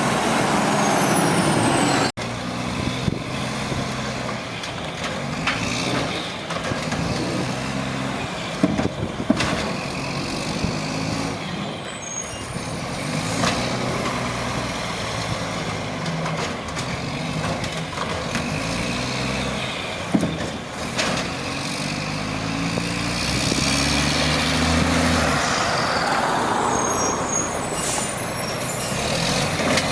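Automated side-loader garbage truck at work: its diesel engine revs up and down over and over as it powers the hydraulic arm, with a few sharp clanks and an air-brake hiss. A rising whine comes in near the end.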